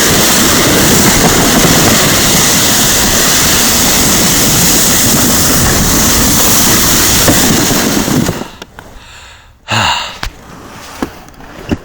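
Loud, steady rushing of a sled ride down a packed snow run: wind buffeting the microphone and the sled sliding over the snow. It stops suddenly about eight seconds in as the sled comes to a halt, and a brief loud sound follows about two seconds later.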